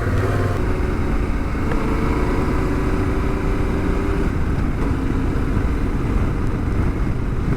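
Yamaha Ténéré 700's parallel-twin engine running under way at a steady, moderate pace, its note easing slightly about halfway through.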